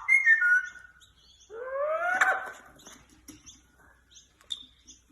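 Pet parrot calling: a short falling call at the start, then a longer rising whistle about a second and a half in, followed by faint quick chirps and clicks.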